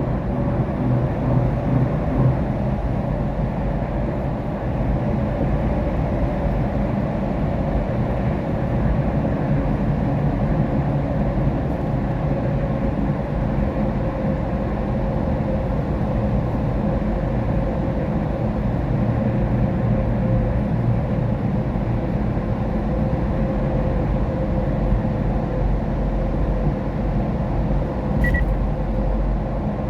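Steady low rumble of road and tyre noise inside a car cabin on a rain-wet road, with a faint steady hum. A short faint beep sounds near the end.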